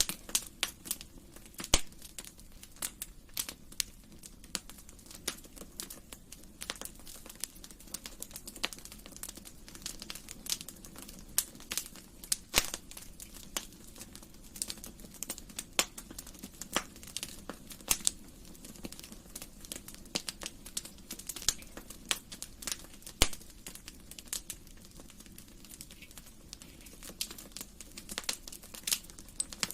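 Wood fire in a fireplace crackling: irregular sharp pops and snaps, a few much louder than the rest, over a low steady sound of the burning.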